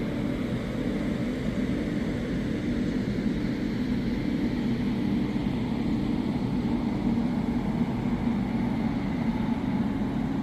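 Steady drone of a moving vehicle, an even low hum with running noise that does not change.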